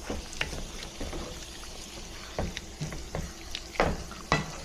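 Eggs frying in a pan with a steady sizzle, and a utensil scraping and knocking against the pan a few times.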